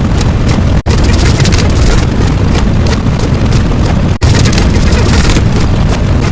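Loud, continuous rumbling sound effect of the boom or explosion kind, heaviest in the deep bass. It breaks off for an instant twice, about a second in and about four seconds in, as if separate clips were joined.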